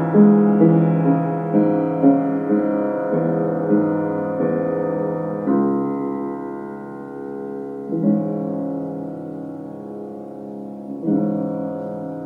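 Piano playing a slow passage: a few notes a second at first, then single chords struck every two to three seconds and left to ring, growing softer toward the end.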